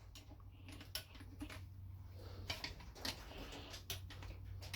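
Faint, irregular light clicks and ticks of a torque wrench being worked bolt by bolt around a Honda automatic transmission's valve body, over a steady low hum.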